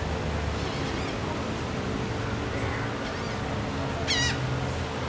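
A bird gives one short, wavering squawk about four seconds in, over a steady background hum.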